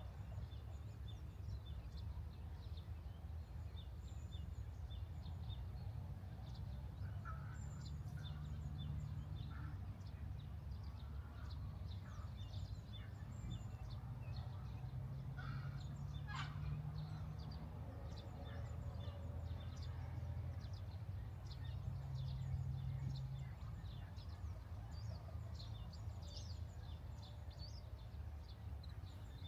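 Wild birds chirping, with many short calls and one longer sweeping call about halfway through, over a steady low hum.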